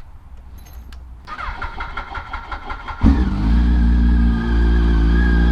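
2005 Yamaha R1 inline-four engine being turned over by its starter for a couple of seconds, then catching suddenly about three seconds in and idling steadily and loudly.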